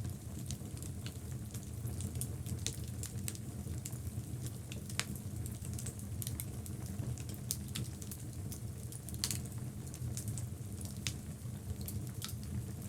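Wood logs burning in a fireplace: a steady low sound from the flames under frequent sharp crackles and pops, with two louder pops about five and nine seconds in.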